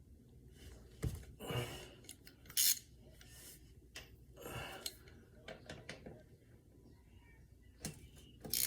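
Light metallic clinks, taps and short scrapes of a steel drain plug and hand tools being handled while the plug is put back into a dirtbike's engine, with a sharper clink about two and a half seconds in.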